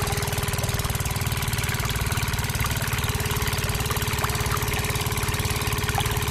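Small engine running steadily with a rapid, even chug: the miniature stationary engine driving a toy water pump by belt.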